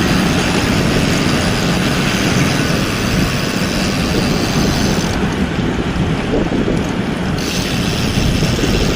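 Wind buffeting the microphone during a bicycle ride, a loud, steady rush with a heavy low rumble.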